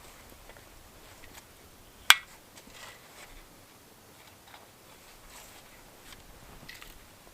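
Faint crunches and clicks of firewood being gathered in snow, with one sharp snap of a dry stick about two seconds in.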